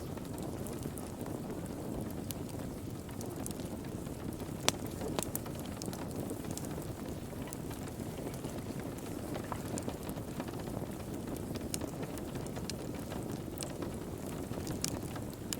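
Wood fire crackling in a fireplace: a steady low rush of burning with scattered sharp pops and snaps, the loudest pop about a third of the way in.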